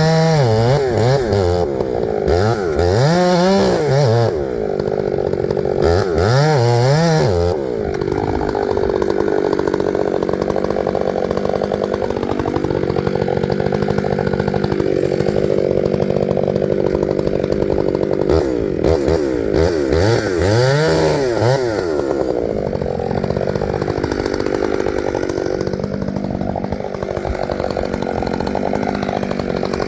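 Gasoline chainsaw running: its engine pitch rises and falls in quick revs three times in the first eight seconds and again about twenty seconds in, with longer stretches of steadier running in between.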